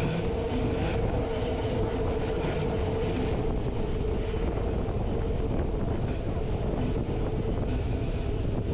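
Rhaetian Railway train running, heard from a coach window: an even rumble of wheels on the track with a steady mid-pitched hum and scattered clicks.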